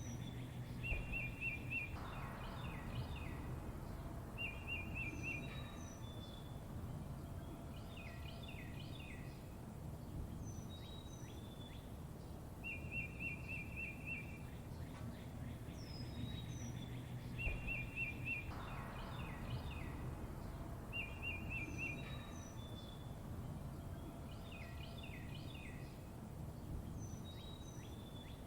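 Songbirds chirping and trilling: short buzzy trills and quick high chirps repeating over a steady low background noise. The same passage of calls comes round again about every 16 seconds, as in a looped recording.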